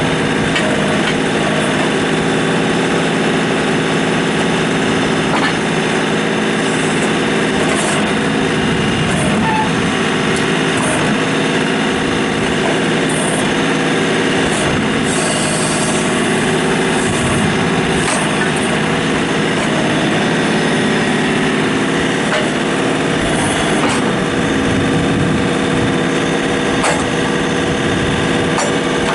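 John Deere 3720 compact tractor's diesel engine running steadily, with a few short higher-pitched sounds on top about midway.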